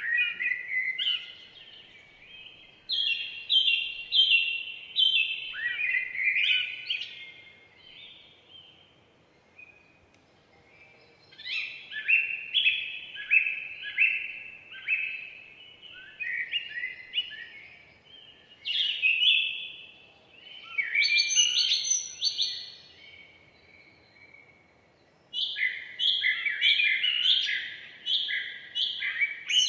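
Forest songbird song: bouts of quick, repeated down-slurred notes, four bouts of a few seconds each with short pauses between, over a faint background hiss.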